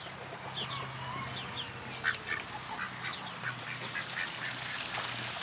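Birds calling in short, scattered chirps throughout, over a faint steady low hum.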